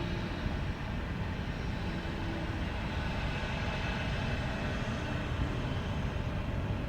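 Jet airliner engines heard at a distance: a steady rumble and hiss with a faint whine.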